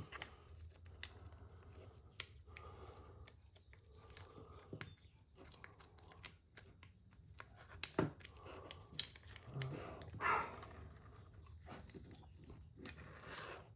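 Faint, scattered clicks and knocks of small parts and tools being handled at a workbench, with a few sharper taps near the end.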